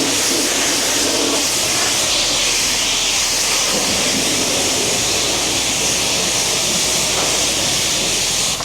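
Steady hiss of a water spray washing down a car, which cuts off at the very end.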